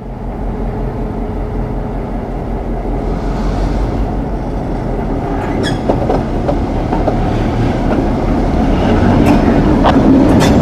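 Train rolling past, a low rumble that grows steadily louder, with a few clicks from the wheels on the rails.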